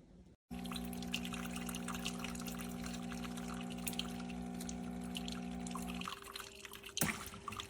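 Espresso machine pump humming steadily while liquid pours and trickles into a cup; the pump stops about six seconds in, leaving scattered drips.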